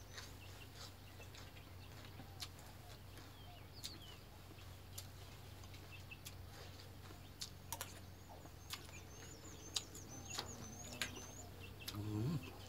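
Small birds chirping in short, high, repeated calls, with a quick run of chirps about nine to eleven seconds in. Scattered light clicks of a spoon against a bowl, and a brief low murmur from the man eating near the end.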